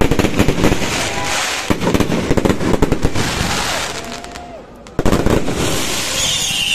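Aerial fireworks crackling in a dense rapid patter that thins out, then a fresh sharp burst of crackle about five seconds in. A falling whistle begins near the end.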